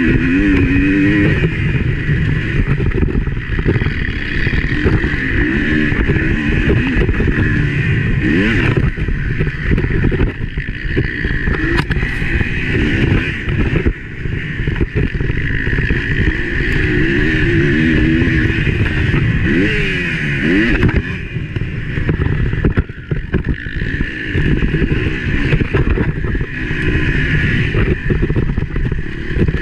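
Motocross motorcycle engine heard on board, revving up and falling back again and again as the throttle is opened and closed around the track.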